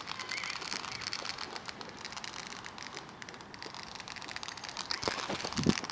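Consumer fireworks crackling, a rapid scatter of small sharp pops, with a louder cluster of pops and a thump about five and a half seconds in.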